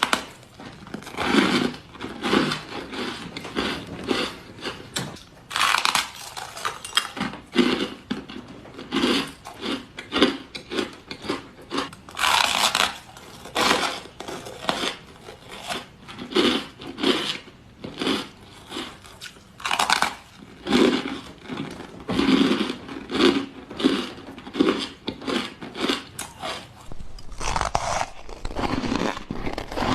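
Ice being bitten and crunched between the teeth close to the microphone: a long run of loud, crisp crunches in quick clusters, with shorter chewing crunches between the bigger bites.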